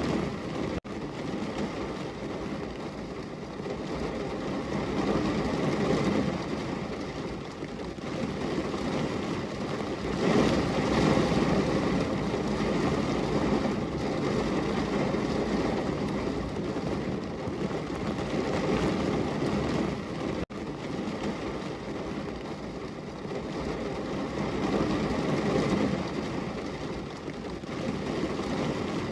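Heavy rain pouring down on a window: a steady rushing noise that swells and eases every few seconds. Two momentary dropouts break it, one near the start and one about two-thirds of the way through.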